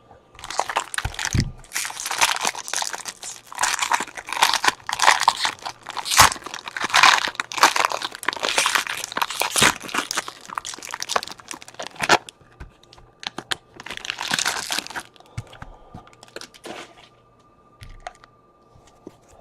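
A baseball card pack's wrapper being torn open and crinkled, dense rustling for about twelve seconds. Then a shorter burst of rustling and a few soft clicks as the cards are handled.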